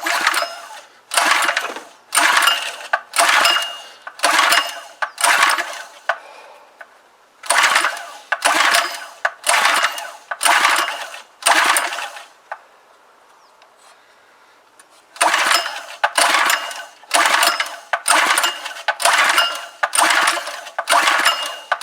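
Recoil pull-starter of a Clarke petrol pressure washer's small engine, yanked again and again, about once a second in three runs of pulls with short pauses between. The engine turns over on the fuel primed into it but does not fire or catch.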